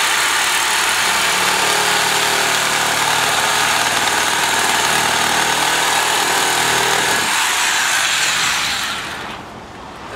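Reciprocating saw (Sawzall) cutting through PVC sewer pipe. It runs steadily and loudly, then winds down and stops near the end.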